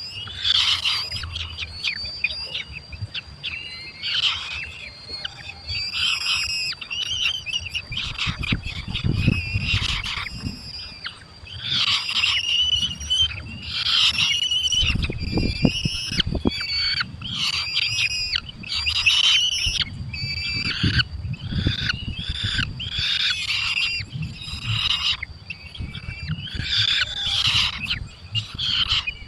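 Falcon chicks in the nest calling over and over: a long series of short, shrill, wavering calls, one after another every second or so. A thin steady high tone runs underneath, and a low rumble comes and goes through the middle.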